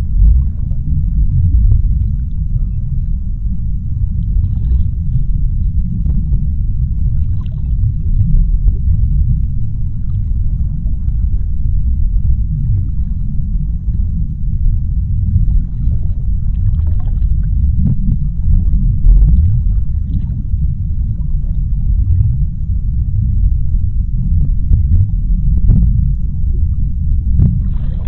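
Underwater ambience of the deep sea: a steady, dense low rumble with faint scattered crackles above it.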